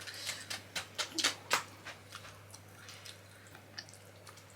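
Close-up eating sounds from a person chewing soft millet dhido with curry: a quick run of wet mouth clicks and smacks in the first couple of seconds, then only a few faint ones.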